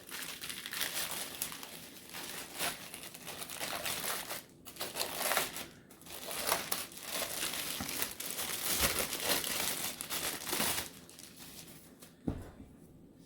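Bag of store-bought pizza dough crinkling and rustling in irregular bursts as the dough is pulled out of it, dying down about eleven seconds in.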